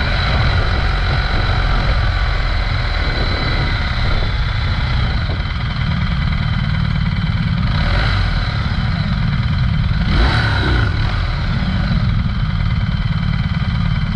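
Several adventure motorcycle engines idling at a standstill, a steady low rumble, with two brief swells in the sound about eight and ten seconds in.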